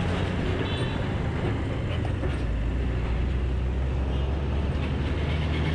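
Bajaj Pulsar motorcycle engine running steadily while riding, its low hum under wind and road noise.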